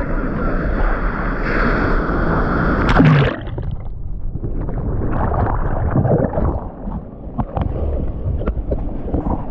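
Surf water rushing and splashing over the microphone. A heavy wash cuts off abruptly about three seconds in, then lighter, uneven sloshing and splashing follows.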